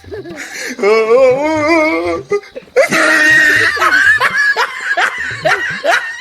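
Loud laughter: a wavering, drawn-out laugh about a second in, then a longer run of rapid 'ha-ha-ha' bursts, about four or five a second.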